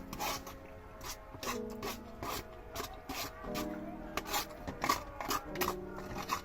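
Close-up eating sounds: a run of short, irregular scraping and rubbing strokes, several a second, over background music with held notes.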